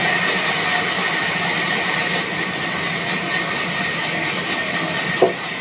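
Sawmill machinery running steadily: an even mechanical hum with a constant high whine and hiss. A brief voice-like sound comes near the end.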